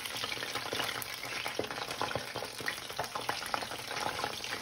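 Batter-coated chicken pieces frying in shallow oil in a frying pan: a steady sizzle with many small crackles and pops.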